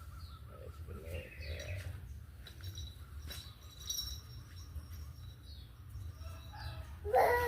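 Pet cockatoo giving soft, faint chirps, then a short, louder call falling in pitch near the end, over a low steady hum.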